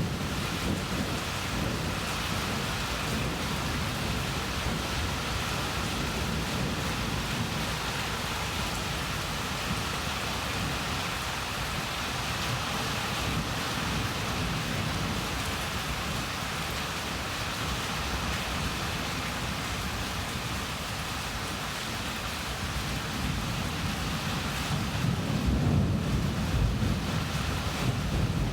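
Steady heavy rain during a thunderstorm, with low thunder rumbling underneath that swells again near the end.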